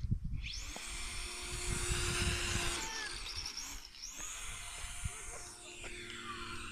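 Electric motor and propeller of a radio-controlled model airplane whining at high pitch in two passes. The first starts sharply, and the second falls in pitch near the end. Wind rumbles on the microphone underneath.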